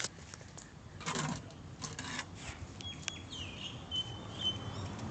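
Faint bird chirps, thin high whistled notes with one dipping and rising, in the second half, after a few soft rustling noises.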